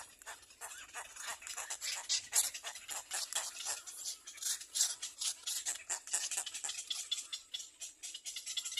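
Nestling birds at the nest making a fast, continuous run of short, scratchy high-pitched chirps and clicks, many a second.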